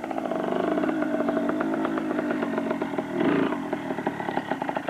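Small dirt bike engine running under throttle while being ridden, its pulsing note rising in loudness over the first half second and swelling again about three seconds in.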